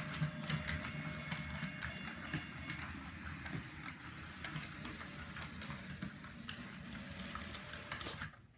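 Model train running along its track: a steady low rumble with a rapid, uneven clicking of the wheels over the rail joints. It cuts off abruptly near the end.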